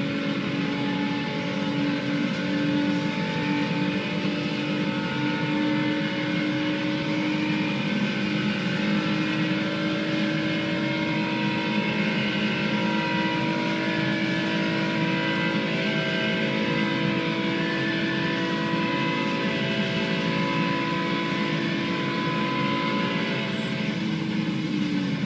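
Volkswagen Golf Mk4 engine running steadily at a near-constant pitch, dipping slightly near the end.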